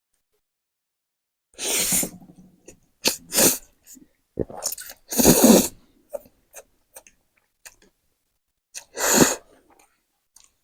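People slurping spicy noodles in a few loud, noisy bursts, with quieter chewing and mouth clicks between them.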